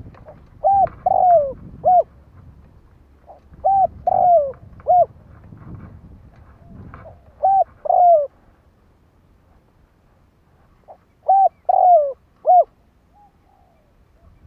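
Decoy spotted dove cooing. It gives four phrases of two or three coos each, mostly a short note, a longer falling note and a short note, about every three to four seconds.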